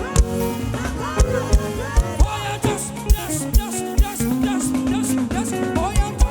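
Live gospel praise band music in an upbeat African dance rhythm, driven by a kick drum about twice a second under pitched melody lines and cymbals.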